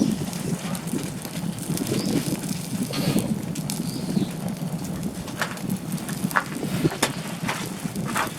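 Wood campfire crackling over a steady low rumble, with scattered sharp pops that come more often in the second half.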